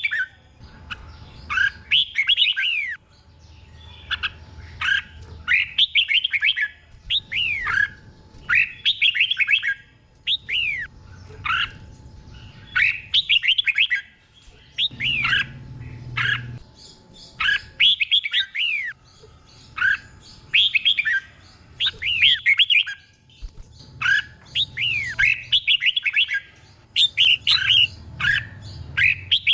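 Red-whiskered bulbul singing: short, loud whistled phrases of quick notes sweeping up and down, repeated about once every second or so.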